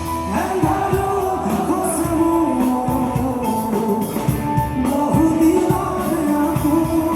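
Live band music in a rock style: drums keeping a steady beat under held, gliding melody lines, with singing.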